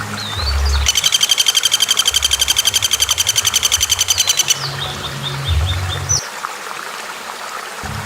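Recorded bird calls: a fast, even rattling trill lasting about three and a half seconds, with short sliding chirps before it and a quick run of brief notes after it, over low repeating tones.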